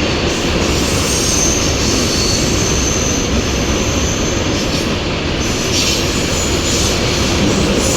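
A train moving past at close range: a loud, steady rumble and rush, with a faint high squeal that comes and goes.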